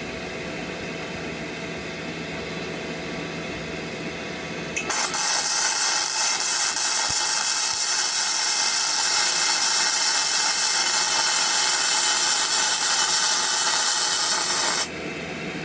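Flux-core welding arc on a Parkside PMSG 200 A1 welder: a steady hum from the machine, then about five seconds in the arc strikes and crackles loudly and evenly for about ten seconds before cutting off suddenly.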